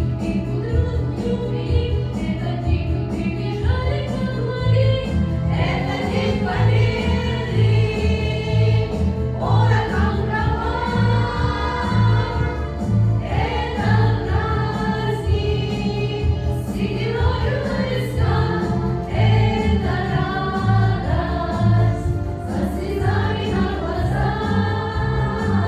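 Song sung by a choir over an instrumental backing track with a steady beat.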